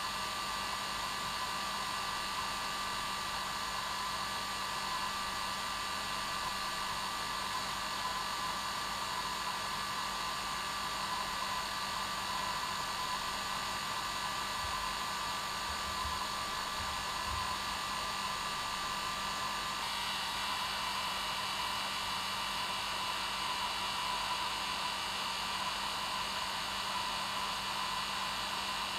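Hair dryer running steadily on its normal setting: an even rushing hiss with a steady hum under it. About two-thirds of the way through, its whining tones shift slightly.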